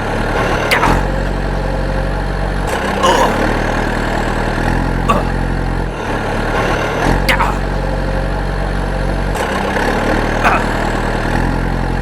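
A steady, low engine drone, its pitch shifting every two or three seconds, with short falling squeaks about every two to three seconds.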